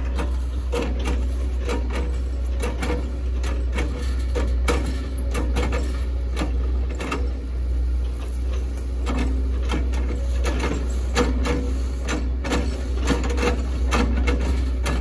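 Hitachi ZX110 MF excavator running steadily under hydraulic load, with many sharp cracks and knocks throughout as it works oil palm trunks.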